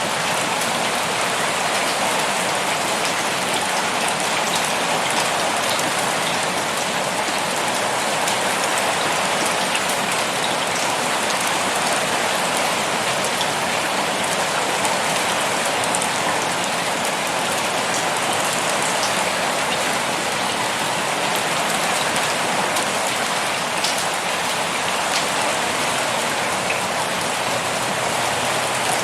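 Heavy rain pouring steadily, a dense even hiss with scattered sharper drop impacts.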